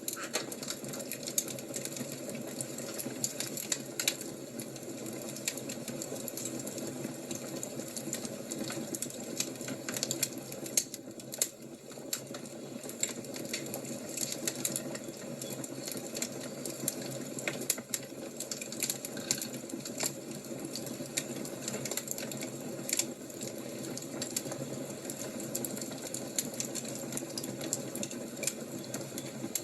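Wood fire crackling: a steady low rush of flame with irregular sharp pops and snaps throughout.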